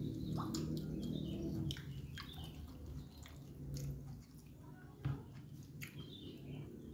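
Close-miked chewing and wet mouth sounds of a man eating pieces of martabak, a stuffed fried pancake, with many small smacks and clicks. A low hum is loudest in the first two seconds and then fades.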